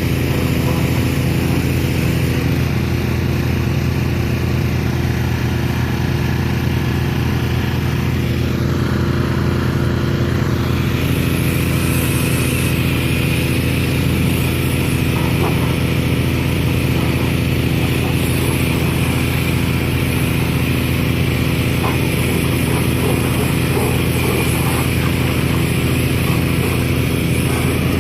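An engine running steadily at a constant speed, with a slight change in its note about eleven seconds in.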